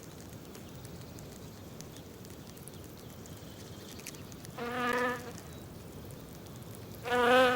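Wasp buzzing in flight: two short passes of a steady-pitched buzz, the first about four and a half seconds in and the second near the end, over a faint steady hiss.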